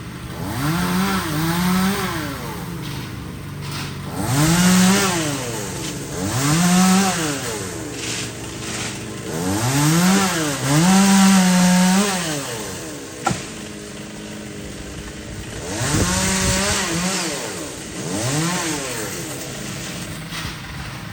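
Two-stroke chainsaw revved up to full throttle and let back down to idle again and again, about seven times, as it cuts. There is one sharp knock a little past halfway.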